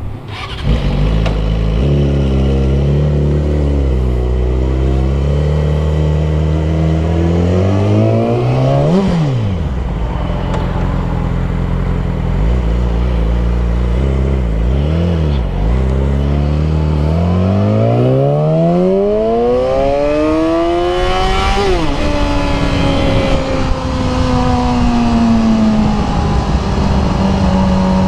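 Suzuki GSX-R sport motorcycle engine accelerating, its pitch climbing through the revs and dropping sharply at upshifts twice, then settling to a steady cruise near the end.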